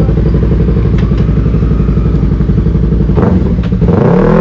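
Yamaha R3's parallel-twin engine idling steadily through an aftermarket M4 exhaust.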